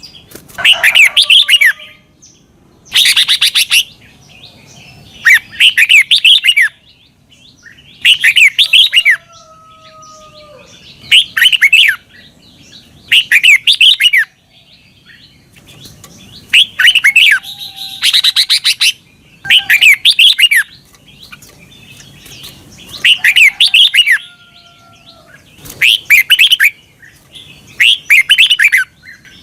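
Red-whiskered bulbul singing its short, bright song phrase over and over, about one phrase every two seconds, each a quick run of chirpy notes lasting about a second. Fainter sliding whistles are heard between the phrases.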